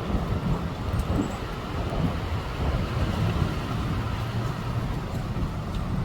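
Strong windstorm wind, a steady rushing noise with heavy low buffeting on the microphone.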